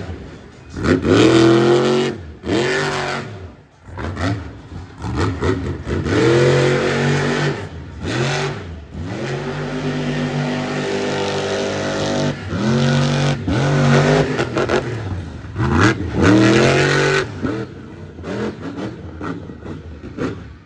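Monster truck's supercharged V8 revving hard over and over, its pitch sweeping up and falling back with each throttle burst, then held fairly steady for a few seconds around the middle.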